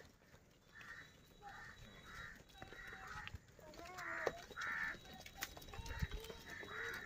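Birds calling in a run of short calls, about two a second, loudest around four to five seconds in.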